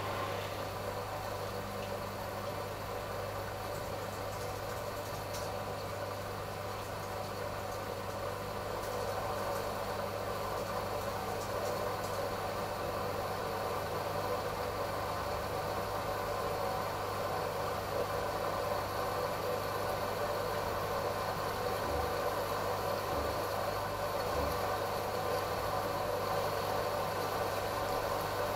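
AEG Lavamat L88489FL washing machine's motor turning the drum in an intermittent spin before the last rinse: a steady hum with a constant whine that grows a little louder about a third of the way in.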